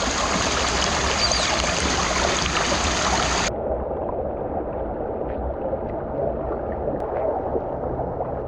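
Steady rushing water noise that abruptly turns muffled, losing its hiss, about three and a half seconds in.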